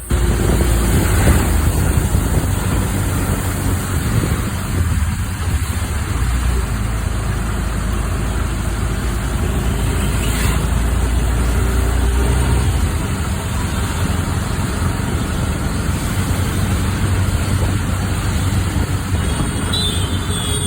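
Road traffic in the rain: car, bus and truck engines running close by, with a low rumble over a steady hiss of rain and wet road.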